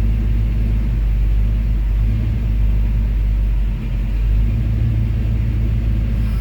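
Car engine idling, heard from inside the cabin: a steady low rumble.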